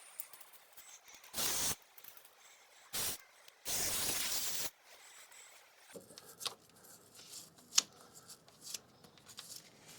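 Aerosol chain cleaner sprayed in three short hissing bursts, the last about a second long, to flush dirt from a motorcycle's front sprocket. After about six seconds, faint scraping and small clicks as the grime is worked out.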